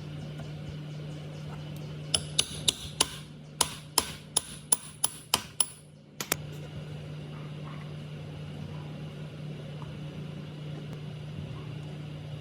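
A run of about a dozen light, sharp metallic taps, roughly three a second, over a steady low hum; the taps stop about six seconds in and the hum carries on.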